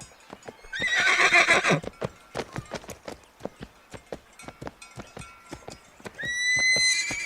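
A horse's hooves clip-clopping steadily, with a loud quavering whinny about a second in and another neigh starting near the end.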